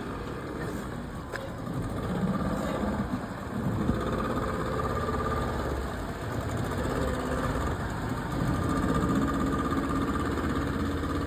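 Speedboat engine running steadily at low revs, a little louder about two seconds in and again near eight seconds.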